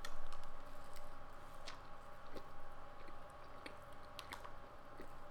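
A person chewing a mouthful of meatball sub on soft garlic bread, with faint scattered mouth clicks.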